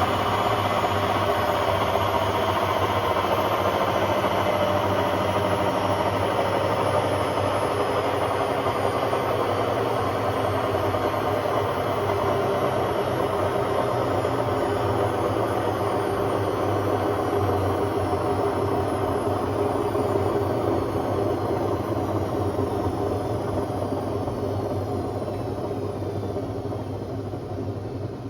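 Hotpoint Aquarius WMA50 washing machine spinning loudly, its motor whine and drum noise falling slowly in pitch as the spin slows. It gets quieter over the last few seconds.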